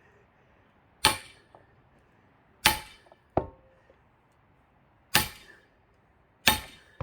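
Heavy hammer striking the back of an axe head to drive it into a pine log: four hard metal-on-metal blows about a second and a half apart, each ringing briefly, with two lighter knocks between.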